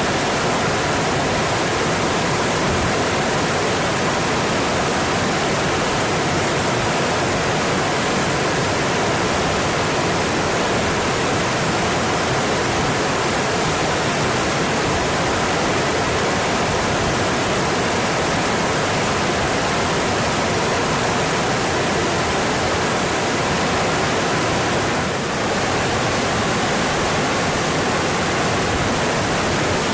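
Mountain stream rushing over rocks in a steady, full hiss of water, with a brief dip in level about 25 seconds in.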